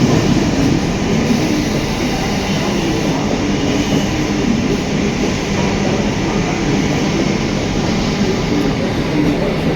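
Mumbai suburban local train running, a loud, steady rumble of wheels on the rails.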